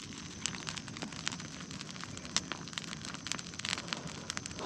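Trash bonfire crackling: a steady hiss with frequent, irregular sharp pops and snaps.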